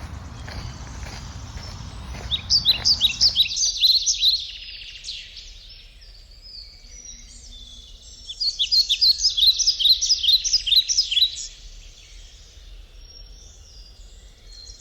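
A songbird singing outdoors in two bouts of rapid, high chirping notes, each lasting two to three seconds, with a low rumble under the first few seconds.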